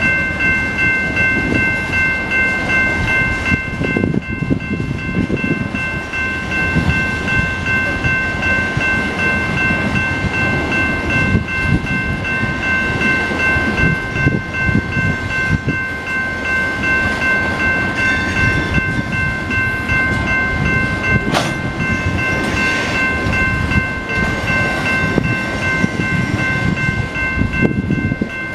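Freight train of tank cars rolling through a grade crossing: a steady rumble and clatter of wheels on the rails, with a sharp clank about three-quarters of the way through. Over it rings the crossing's warning bell, a steady high ringing that runs throughout.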